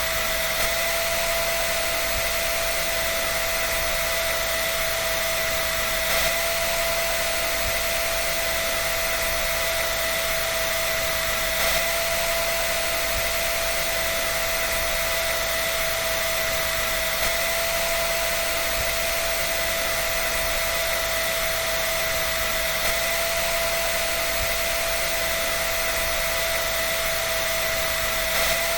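Hair dryer running steadily: a continuous rush of air with a constant motor whine.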